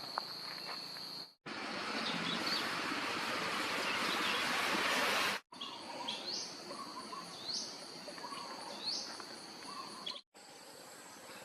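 Forest ambience with a steady high-pitched insect drone, interrupted by about four seconds of loud, even rushing noise. Near the middle, short rising bird calls repeat about once every second and a bit over the insect drone, and the sound cuts off abruptly several times.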